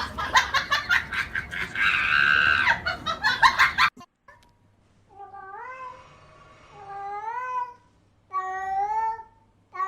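A loud, noisy stretch full of clicks, which cuts off suddenly about four seconds in. Then a domestic cat meows three times, each meow long and drawn out, with short pauses between them.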